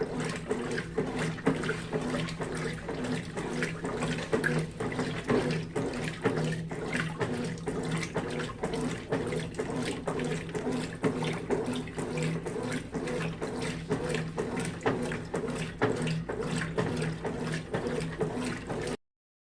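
Brastemp 12 kg washing machine running a wash with blankets and towels: a steady motor hum under continuous, irregular water sloshing and splashing.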